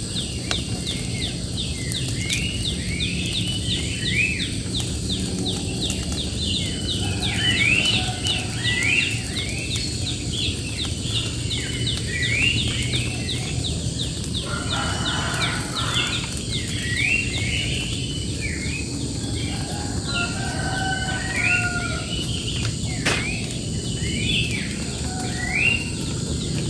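Birds singing outdoors: many short upward-sweeping notes repeated in bursts, over a steady low rushing background.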